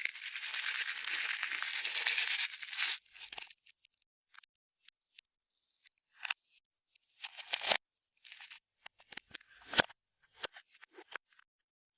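Clear slime being stretched and squished by hand: a dense, sticky crackle for about the first three seconds, then scattered wet pops and clicks as it is pressed and pulled.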